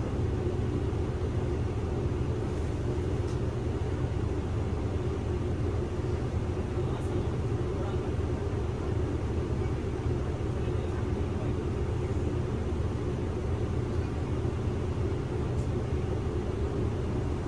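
Inside a Kyoto City bus on the move: a steady engine hum and road noise, heaviest in the low end, with no change through the stretch.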